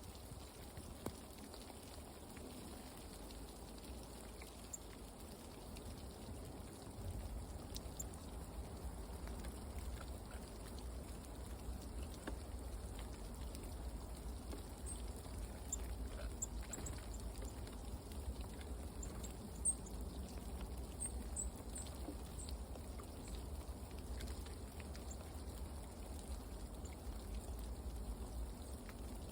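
Forest ambience: a steady soft hiss with scattered faint ticks and a low rumble that grows about seven seconds in, with a few faint, short, high chirps of small birds around the middle.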